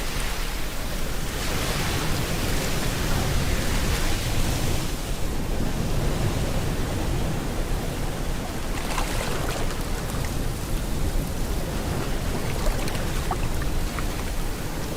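Rain mixed with ocean surf: a continuous rushing hiss that swells and eases, its hiss thinning about five seconds in and coming back near nine seconds, with faint scattered drips.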